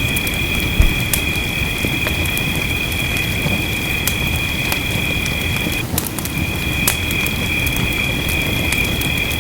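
Wood fire crackling in a fireplace, with scattered sharp pops over a steady rumble and hiss of gentle rain. A steady high-pitched tone runs alongside and drops out briefly about six seconds in.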